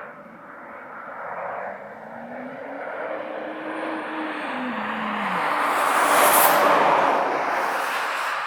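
Jet aircraft flying past low overhead: the engine noise swells to a peak about six seconds in and then fades, with an engine tone dropping in pitch as it goes by.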